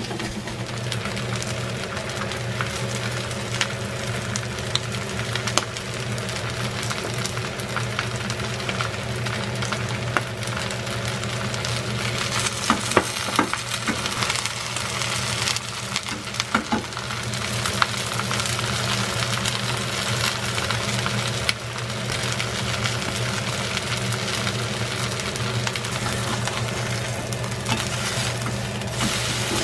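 Batter-coated chamnamul, shrimp and onion sizzling in oil in a frying pan while a wooden spatula stirs and spreads them. Sharp knocks and scrapes of the spatula against the pan cluster about halfway through, over a steady low hum.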